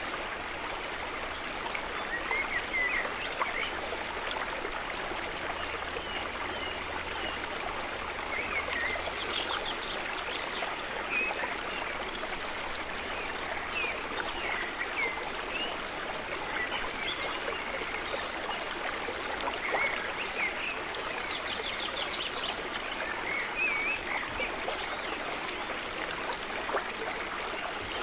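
Running water of a stream, flowing steadily. Short high chirping calls, typical of small birds, come and go over it throughout.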